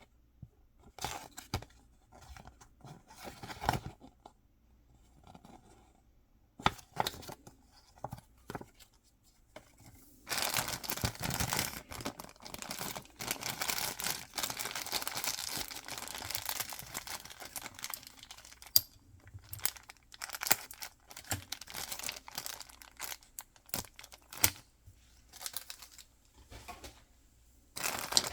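Mystery-box packaging being torn open and crinkled by hand. Scattered rustles and taps give way, about ten seconds in, to some eight seconds of continuous tearing and crinkling, then intermittent crinkling again.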